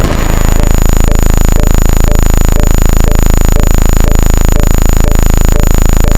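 Loud, steady buzzing sound effect made of a very rapid, even train of clicks, with faint blips about twice a second.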